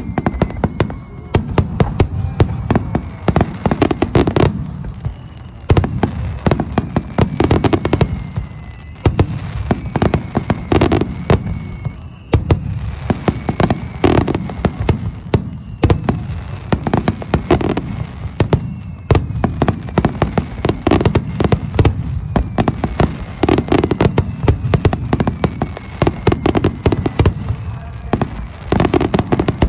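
Aerial fireworks display: shells bursting in quick succession with booms and crackling, and several whistles falling in pitch.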